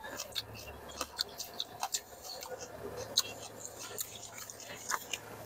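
Close-miked eating sounds: irregular soft wet clicks and smacks of food being chewed with the mouth closed, a few each second.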